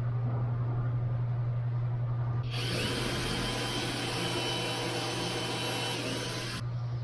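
A power tool's motor runs for about four seconds, starting a couple of seconds in with a quick rising spin-up and winding down as it stops, over a steady low hum.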